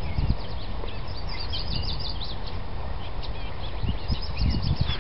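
Small birds chirping and twittering in quick, high notes, busiest in the middle, over a steady low rumble that swells briefly at the start and again near the end.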